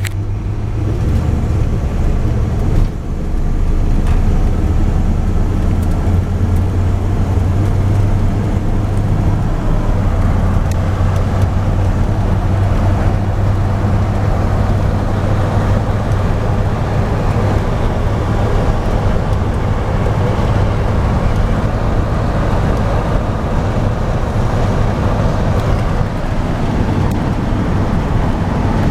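1976 Ford truck's engine running steadily as the truck drives, with a brief dip in level about three seconds in.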